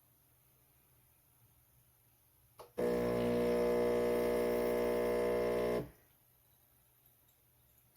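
A click, then the Chefman espresso machine's 15-bar pump runs with a steady buzzing hum for about three seconds and cuts off: the machine being primed.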